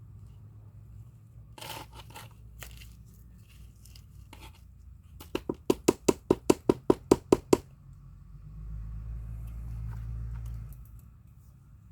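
Rustling and crunching from hands working plants and potting soil, then a quick run of about a dozen sharp knocks, about five a second, loudest of all. A low rumble follows for about two seconds near the end.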